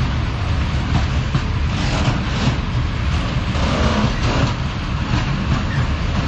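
Freight train rolling past close by: a steady, loud rumble of wheels and wagons on the rails.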